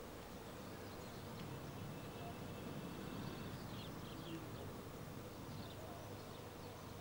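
Faint, steady buzzing of a honeybee swarm, with a few short bird chirps over it.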